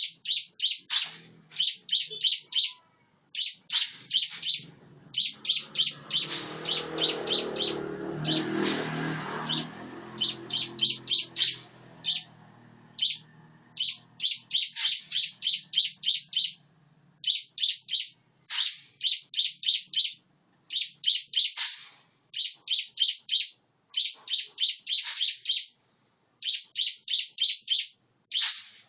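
Ciblek, a small prinia, singing in quick bursts of rapid, high, repeated notes, each phrase about a second long with short pauses between. A low rumble sounds underneath for a few seconds about a quarter of the way in.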